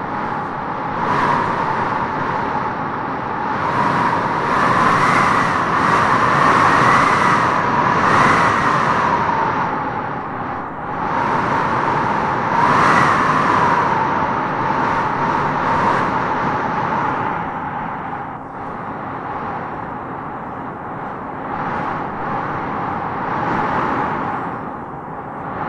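Strong wind blowing in gusts, with a whistling howl that swells and fades, loudest in the first half.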